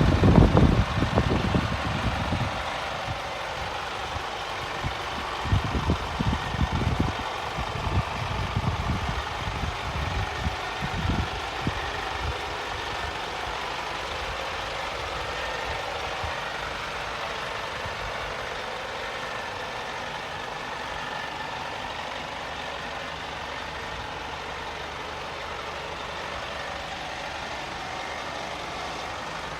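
Scania P 230 truck's diesel engine idling steadily, with irregular low thumps through the first dozen seconds.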